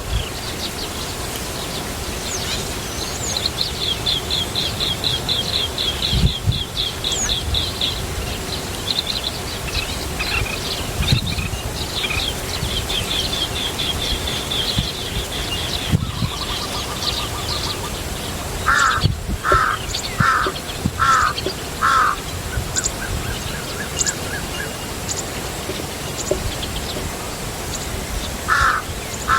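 Birds calling: fast runs of high, repeated notes in the first half, then a series of five harsh, caw-like calls a little past halfway and two more at the end.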